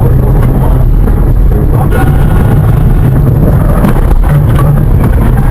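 Loud, steady rumble of a car's engine and road noise as picked up by a dashcam, with a few faint knocks.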